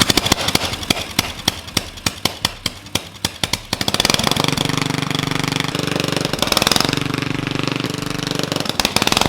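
Straight-piped 12.5 hp Briggs and Stratton single-cylinder riding-mower engine, with no muffler, running loud, sharp and popping. It pops unevenly at first, then settles into a steadier, faster run about four seconds in.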